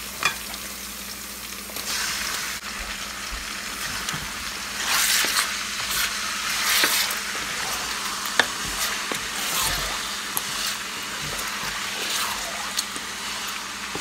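Diced chicken pieces sizzling and frying in hot oil in a metal pot while a wooden spatula stirs them. The sizzle swells and eases in waves, with a few sharp clicks from the stirring.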